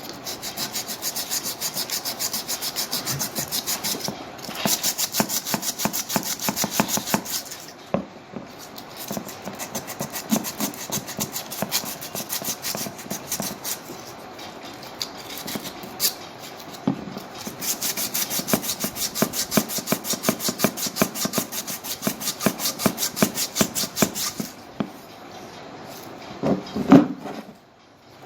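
Rapid back-and-forth abrasive rubbing strokes by hand, about five a second, on a corroded salvaged compass being cleaned up, in runs of several seconds with short pauses. A single knock near the end.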